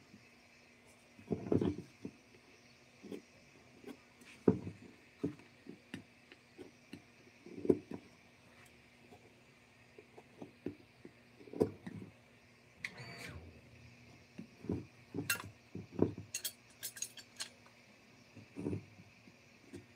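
Irregular knocks, taps and a few sharp clicks, spaced unevenly through the stretch, over a faint steady hum.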